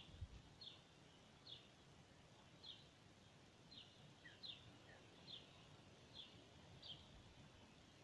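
Faint, short, falling bird chirps repeated about once a second over a low background hush.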